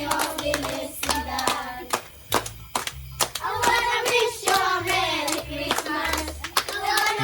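Children singing a Christmas carol to a steady beat of claps and percussion strikes, with low bass notes underneath.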